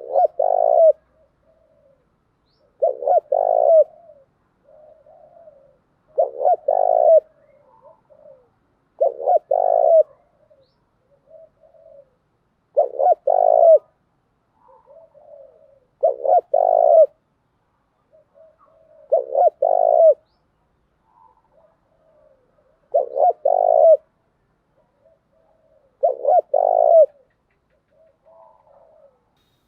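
Spotted dove (cu gáy) cooing: nine evenly repeated phrases, about one every three seconds, each a soft lead-in note followed by a loud double coo. It is played as a lure call to get other doves to call back.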